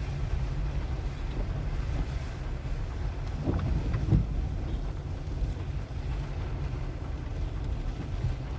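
A car driving slowly over wet, sandy streets: a steady low rumble of engine and tyres, with a couple of thumps from bumps about three and a half and four seconds in.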